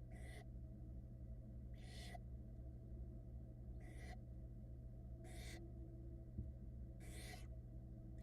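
Barn owl nestlings giving their hissing begging calls, five short rasping hisses about every one and a half to two seconds, over a steady low electrical hum from the nest-box camera.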